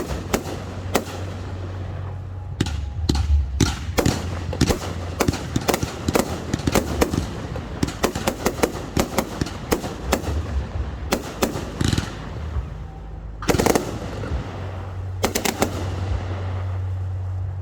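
Fireworks display: a rapid, dense string of sharp bangs and crackles, with a few bigger booms that echo out near the end.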